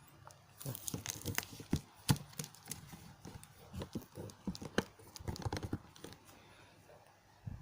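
Irregular rustling, crinkling and small clicks and knocks of something being handled, from about half a second in until about six seconds.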